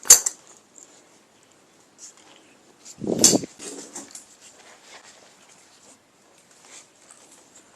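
Hand work with tools and parts on an engine: a sharp metallic click, then a louder clunk and clatter about three seconds in, followed by scattered small clicks and handling noises.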